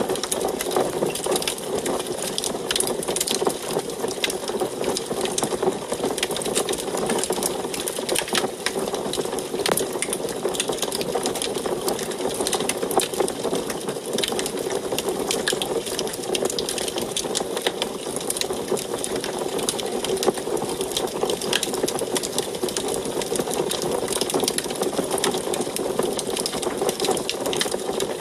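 Wood fire burning in a wood stove: a steady low roar of flames with dense, irregular crackling and popping.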